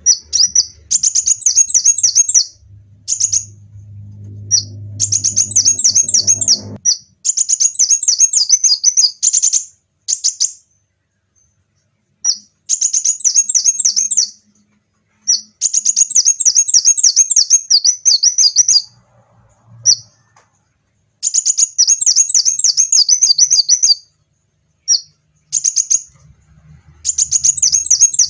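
Kolibri wulung (kowul) sunbird singing: repeated phrases of rapid, high, sharp chirps, each lasting one to three seconds, broken by short pauses. A low rumble sits under the song for the first several seconds.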